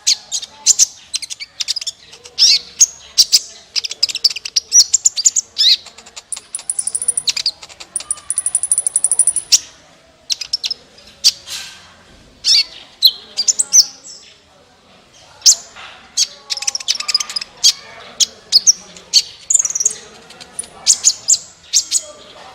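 A sunbird, the small bird sold in Indonesia as 'kolibri', singing in a loud, rapid run of high, sharp chirps and twittering phrases, in bursts with short pauses. A thin, buzzy high trill runs through the middle.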